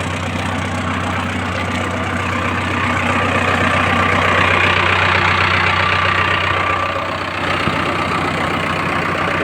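Mahindra tractor's diesel engine running steadily, growing louder from about three seconds in, easing briefly near seven seconds, then running on.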